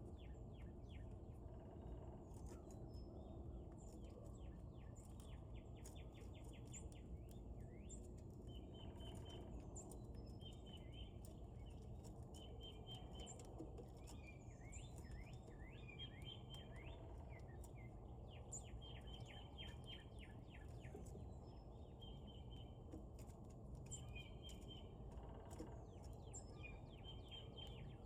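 Wild birds chirping and trilling, faint, in short repeated high calls and quick rattling series, over a steady low outdoor rumble.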